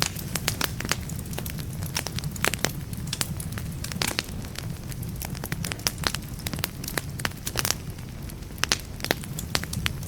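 Wood fire in a fireplace crackling, with many sharp, irregular pops and snaps over a steady low rumble of burning.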